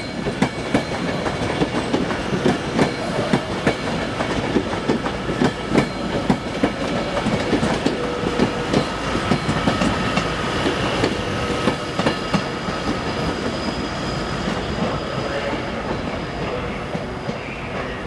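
Train pulling out of the station, its wheels clacking rapidly and unevenly over the rail joints above a steady rumble, with a faint whine around the middle.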